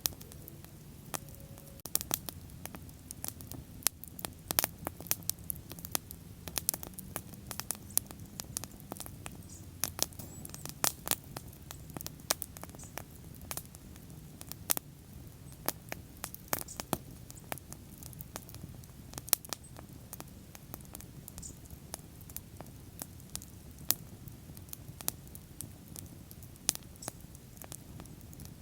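Wood bonfire crackling: irregular sharp pops and snaps, several a second, over the low steady rush of the flames.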